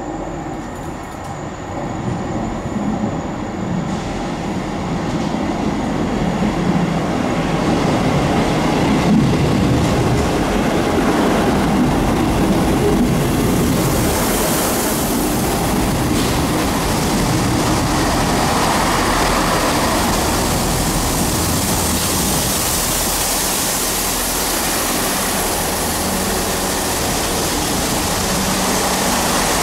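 A train approaching, its noise building over the first several seconds into a steady, loud rumble and hiss as it runs past on the rails.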